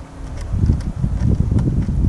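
Wind buffeting the microphone: an irregular, gusting low rumble, with a few faint ticks.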